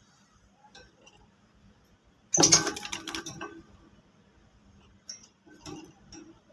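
A sudden loud rattling clatter a little over two seconds in, lasting about a second, followed by three short lighter knocks near the end.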